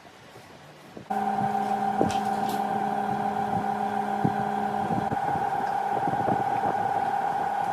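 An electric power tool motor switched on about a second in and running with a steady whine, with a couple of sharp clicks over it.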